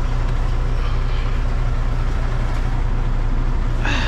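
Semi truck's Cummins X15 diesel idling steadily, a deep even hum, parked. Near the end there is a short higher-pitched sound.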